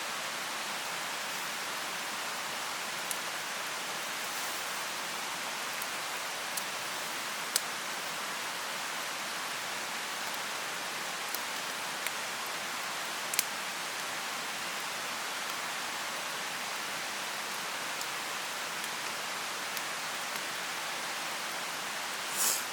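Mountain stream running with a steady rush, with a few sharp pops from a bonfire, one of them a little past halfway, and a brief louder burst near the end.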